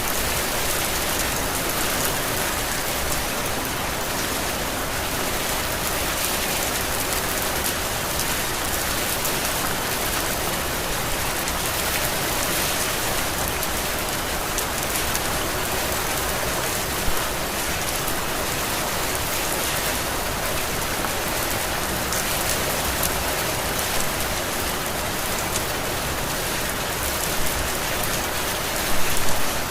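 Heavy rain falling steadily, an even hiss of drops on surfaces, with a few brief louder splashes, the strongest cluster near the end.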